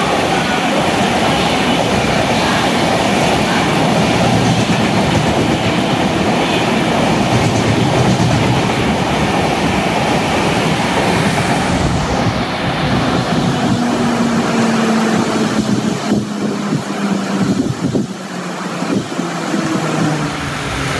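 Express passenger train passing close at speed, its wheels rumbling and clattering over the rails, with heavy rain. About twelve seconds in, the noise thins as the last coach goes by, leaving a low hum that slowly falls in pitch and a few scattered clicks.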